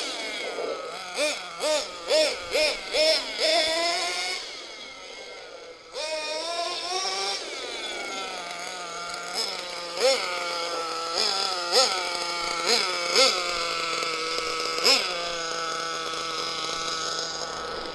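Small SH .21 nitro engine of a 1/8-scale RC monster truck being revved in quick throttle blips, about two a second, then dropping off and coming back to run steadily with occasional sharp revs, while the motor is warmed up.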